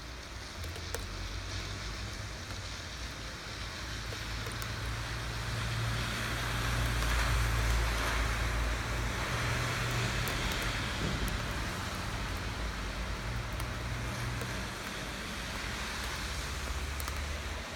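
Steady rain falling, with a few sharp drip ticks. Under it a low rumble and a wider hiss swell to their loudest about halfway through, then ease off.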